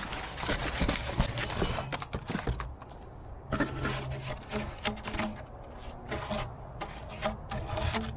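Parts of a boxed exhaust kit being unpacked: rustling and scraping of packing for about the first two and a half seconds, then a run of light clicks and knocks.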